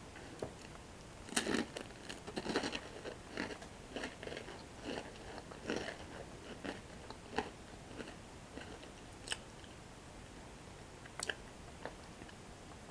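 Close-miked biting and chewing of crunchy toasted Dip Dip Bollycao breadsticks. A bite comes about a second in, followed by a run of crunches for several seconds that thins to a few sharp isolated crunches near the end.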